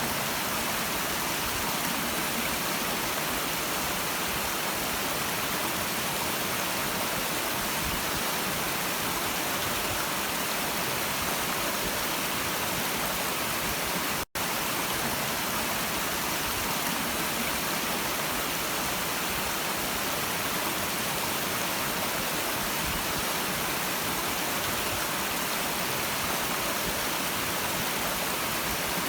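A stream's water rushing steadily in an even hiss, broken once about halfway by a split-second dropout where the recording loops.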